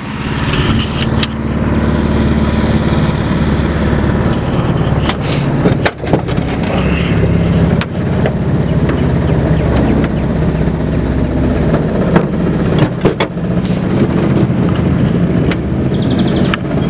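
A boat's mud motor, powered by a 6.5 hp Predator single-cylinder engine, running steadily under way. It picks up right at the start, and a few sharp knocks come through over it.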